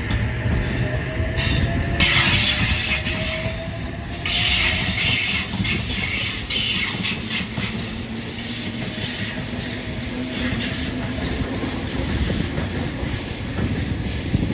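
Oscar (H set) electric multiple unit pulling out of the platform. Its wheels squeal and click over the rail joints, and a faint whine from the traction motors rises in pitch as it gathers speed.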